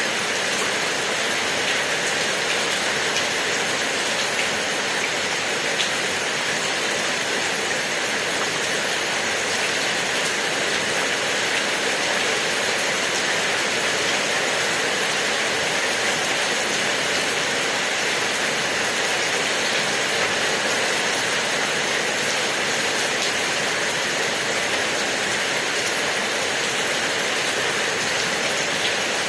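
Steady rain falling: an even, unbroken hiss of raindrops that holds at one level throughout.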